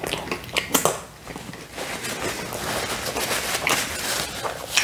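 Close-miked eating sounds of a man chewing a mouthful of pizza: a few short wet clicks at first, then a steady rough rustling from about two seconds in.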